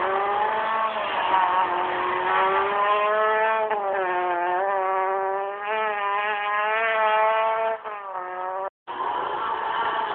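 Peugeot 206 rally car's engine at high revs, its pitch climbing and falling with sharp drops at gear changes about four and eight seconds in. The sound cuts out for an instant near the end.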